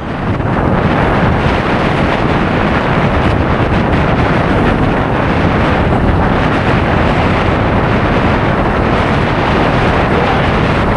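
Strong wind buffeting the microphone of a camera on a moving road bike: a loud, steady rush of wind noise.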